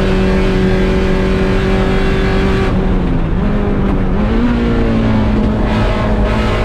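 A 1.6-litre Mazda Miata's four-cylinder engine at high revs under racing throttle. About three seconds in the driver lifts off, the revs jump to a higher steady note as it shifts down, and it pulls hard again near the end.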